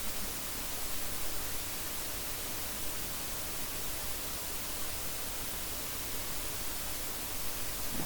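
Steady hiss of recording noise with no other sound: the microphone's noise floor or room tone.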